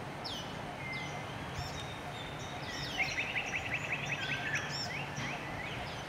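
Small birds calling in the background: scattered short whistled notes, and from about three seconds in a rapid trill lasting under two seconds, over a steady low rumble of outdoor background noise.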